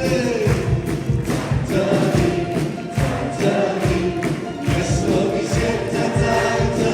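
Live worship music: a group of voices singing a praise song together over a band with a steady beat.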